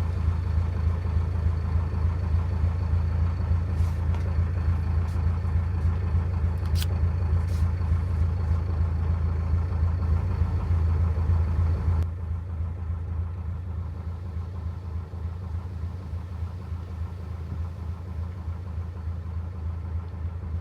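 Narrowboat engine running steadily at low revs, a deep even drone, with a few light clicks about four to eight seconds in. About twelve seconds in it drops suddenly to a quieter level and carries on.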